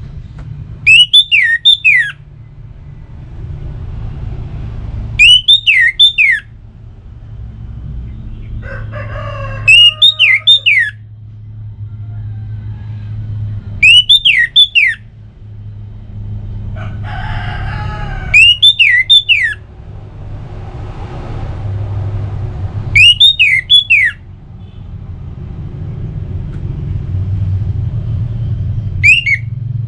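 Orange-headed thrush (anis merah) song: a short phrase of quick, sharp, descending whistled notes, repeated seven times about every four to five seconds. A steady low hum runs underneath.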